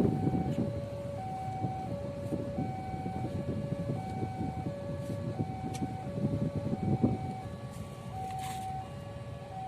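Railway level-crossing warning signal sounding its alternating two-note alarm, high and low notes taking turns about every 0.7 s, over the low rumble of idling motorcycles and traffic waiting at the closed barrier.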